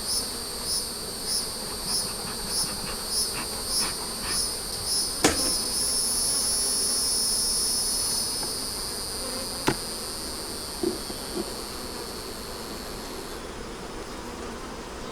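A high-pitched insect call that pulses about one and a half times a second, then becomes a steady buzz and cuts off abruptly near the end. Underneath it runs the low hum of honey bees around an open hive, with a couple of sharp knocks.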